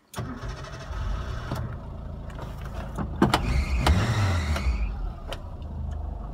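Suzuki Samurai engine starting on the ignition key, catching straight away and running. It is revved up about three to four seconds in, then settles back to an idle around 1000 rpm.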